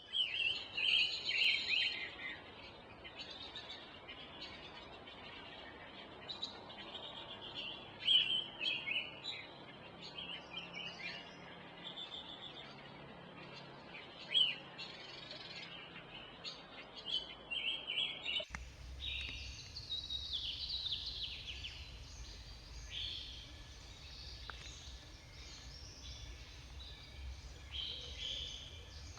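Oriental magpie-robin singing: a string of short, varied whistled phrases with pauses between them. About two-thirds of the way through the background changes abruptly, with a steady low rumble under the song.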